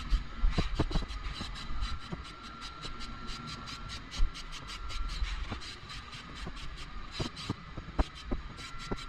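Aerosol can of zinc weld-through primer being shaken, its mixing ball rattling in a quick, steady run of sharp clicks, about five a second.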